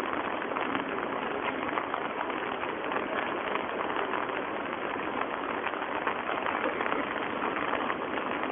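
Steady rain falling, a constant hiss dense with small drop hits.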